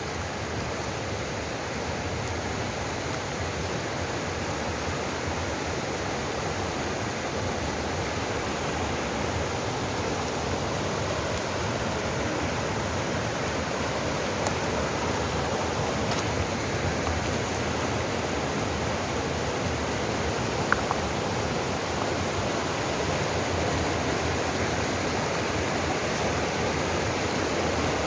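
Valley stream water rushing steadily, getting slightly louder over time.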